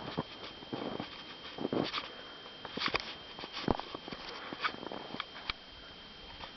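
Irregular soft rustles and sharp clicks, a few each second, dying away about five seconds in, over a faint steady high-pitched whine.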